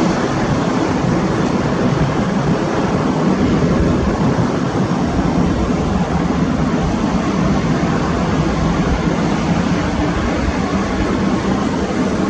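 Airbus A320-232 jet airliner's twin IAE V2500 turbofan engines running loud and steady, a dense roar with a faint low hum through it.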